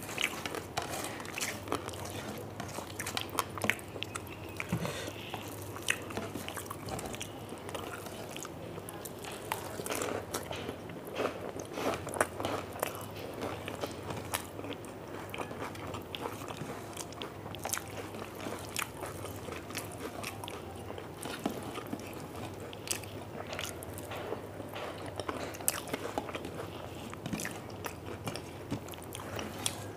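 A person chewing and crunching crisp fried food, with short, irregular crunches every second or so throughout.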